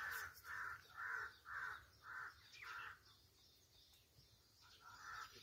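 A bird calling over and over: six calls at about two a second, then a pause, and two more calls near the end.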